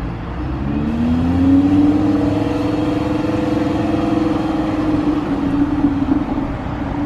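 Sports car engine accelerating as the car drives off, its note climbing over the first couple of seconds and then holding steady.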